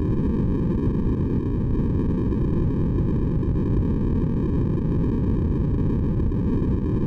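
Steady synthesized sleep noise, deep and rumbling with most of its energy in the low end and a thinner, hollow-sounding hiss above, without change or break.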